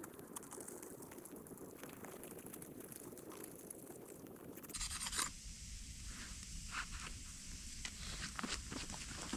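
Scraping and rubbing, then a short burst about halfway through, followed by scattered crunches and clicks.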